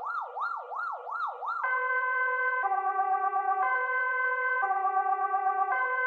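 Electronic police siren in a fast yelp, sweeping up and down about three times a second. A little under two seconds in it switches to a two-tone hi-lo pattern, alternating about once a second.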